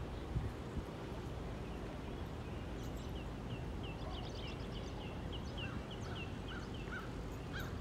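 Songbirds calling in runs of short, quickly repeated chirps. A higher series starts about three seconds in and a lower one joins near the end, over a steady low background rumble.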